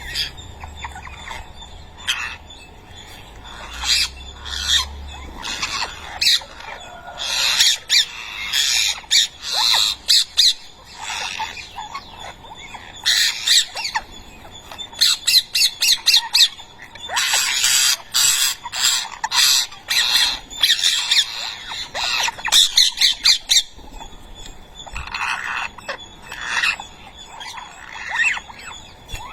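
Rose-ringed (ringneck) parakeet chicks squawking: many short, harsh begging calls in quick clusters, with a couple of brief lulls.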